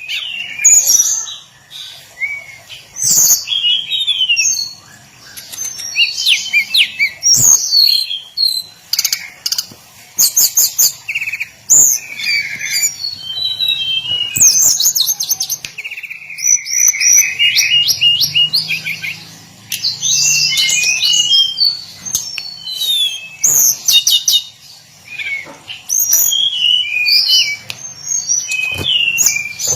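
Hill blue flycatcher singing a long, varied song of rapid trills, fast runs of repeated notes and high whistled phrases, with brief pauses between bursts.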